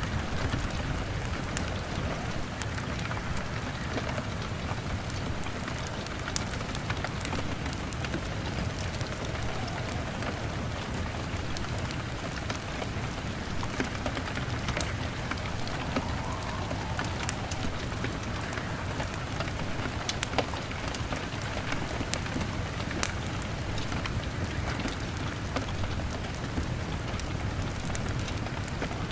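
Steady rain on a window mixed with a crackling log fire: an even wash of rain over a low rumble, with many scattered sharp clicks and pops.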